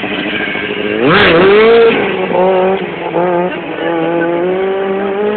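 Sportbike engine revving hard under wide-open throttle. About a second in there is a sharp crack and the pitch dips and then climbs. The engine is loudest just after that, then holds a steady high note broken by several short dips as the throttle is worked.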